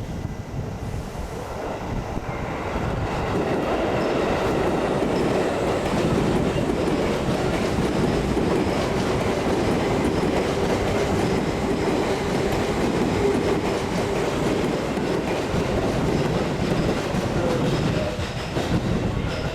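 Seibu 10000 series New Red Arrow electric train (fifth batch) running, with the steady tone of its 3-level IGBT VVVF inverter traction drive over the clickety-clack of wheels on rail joints. The sound grows louder over the first few seconds and then holds steady.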